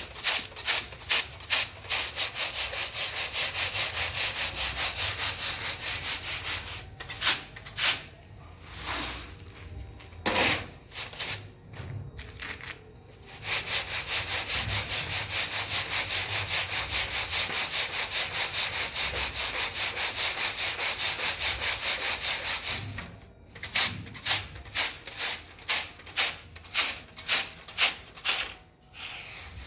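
Quick, even rubbing or scraping strokes. They run unbroken for long stretches and break into separate strokes in between.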